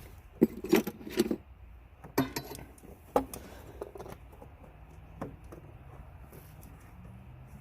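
Metal tools and small parts clinking and rattling as they are handled, a cluster of sharp clinks in the first three seconds and a single one about five seconds in.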